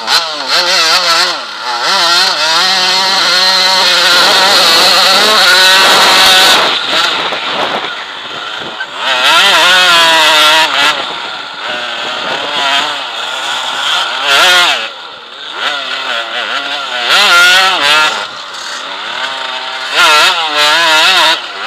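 Onboard sound of an enduro motorcycle's engine revving hard and easing off again and again as the bike accelerates away and works along a dirt track.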